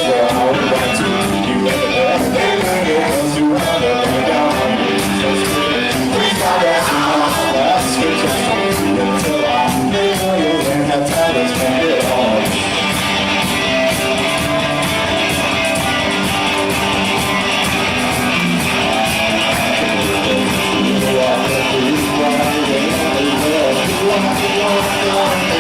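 Live rock band playing: guitars over drums with a steady beat.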